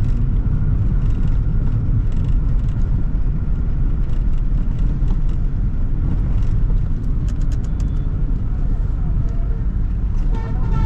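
Toyota Sprinter AE110 on the move: steady low engine and road rumble with tyre noise, a few brief clicks about seven seconds in, and a short pitched sound starting near the end.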